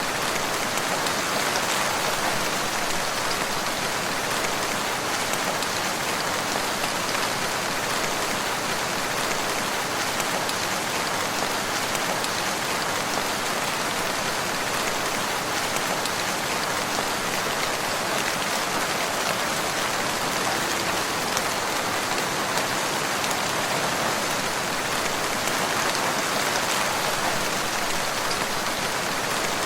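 Steady rain falling, a constant even hiss of many drops on a surface.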